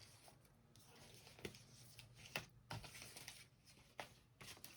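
Near silence with a few faint, brief rustles and soft clicks of paper magazine cutouts being handled.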